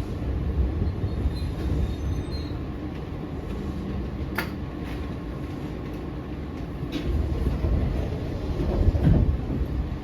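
Eizan Electric Railway 900 series 'Kirara' train running, heard from inside the car: a steady low rumble of wheels on track, with a sharp click about four seconds in, a fainter one about seven seconds in, and the rumble growing louder near the end.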